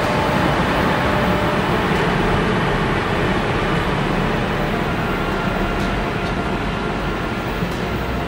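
Model electric train running along its track: a steady rumbling, rattling noise with a faint steady tone over it.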